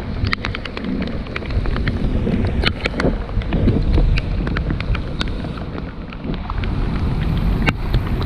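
Raindrops tapping irregularly on the camera, over a low rumble of wind on the microphone.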